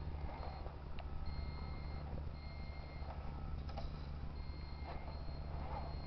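RC Kamaz model truck's sound module running a steady low engine hum, with a repeating electronic reversing beep of about half-second tones and short gaps.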